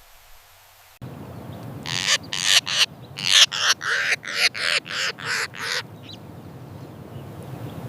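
A bird giving a run of about a dozen short, harsh, rasping calls, roughly three a second, which stops about two seconds before the end over a steady outdoor background hiss.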